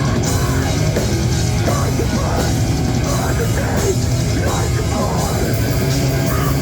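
Live grindcore/thrash band playing at full volume, with distorted guitars, bass and drums, recorded on a phone from the crowd, so the sound is loud, dense and unbroken.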